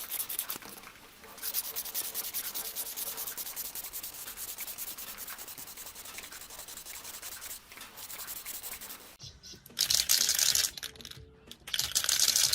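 Hand sanding of a part of an old electric fan under restoration: quick, even back-and-forth rubbing strokes, with a short pause about a second in. Near the end come two louder hissing bursts, about a second each.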